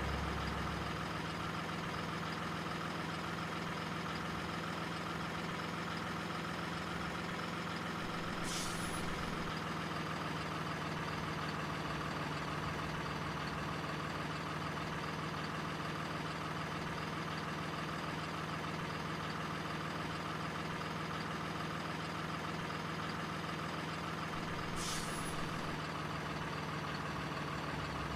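Truck engine idling steadily, with two brief high hisses, one about eight seconds in and one near the end.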